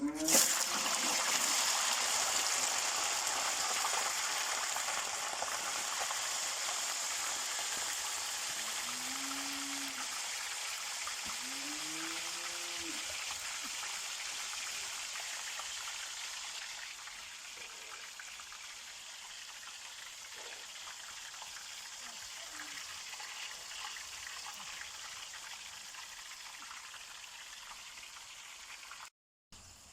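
Cut potatoes going into hot frying oil, sizzling loudly the instant they hit it, then slowly quietening as the frying settles.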